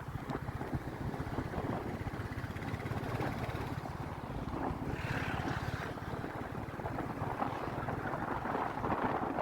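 Royal Enfield Classic 350's single-cylinder engine running under way, a steady fast low beat. Wind noise on the microphone swells briefly about halfway through.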